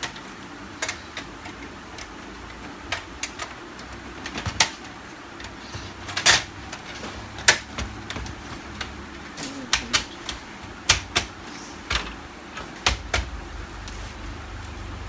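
Irregular plastic clicks and knocks from the outer cover of a Canon LBP 6030 laser printer being handled and pressed onto its snap locks.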